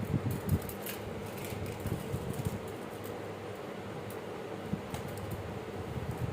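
Steady fan-like hum with scattered light clicks, taps and scuffs from kittens playing close by.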